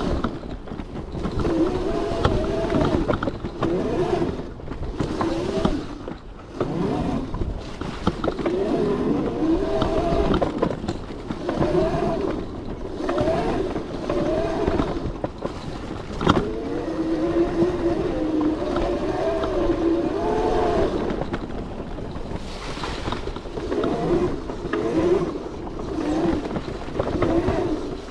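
A modified 72-volt Razor MX650 electric dirt bike being ridden on a trail: its motor and drive whine, rising and falling in pitch as the throttle is worked, over wind and tyre noise. A sharp knock about 16 seconds in.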